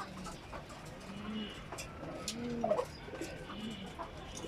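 Racing pigeons cooing: a series of low, rising-and-falling coos, with a few faint clicks among them.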